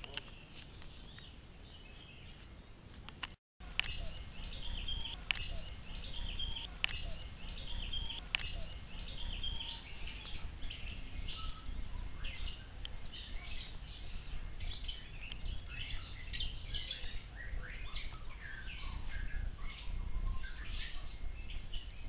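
Sogok ontong birds chirping: a caged chick used as a lure, with the parent bird coming to the cage. The short, high, rapid chirps come thicker and busier from about halfway through.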